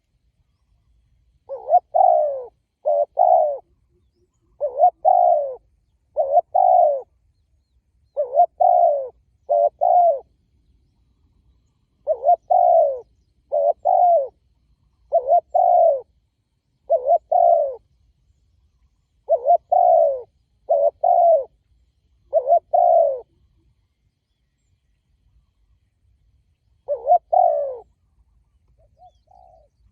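Spotted dove cooing: a string of short two-note coo phrases, repeated every second or two with a longer pause before the last phrase.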